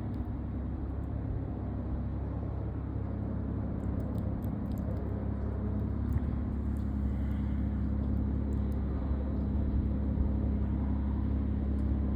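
Steady low rumble of a running vehicle, with a constant hum, growing slightly louder.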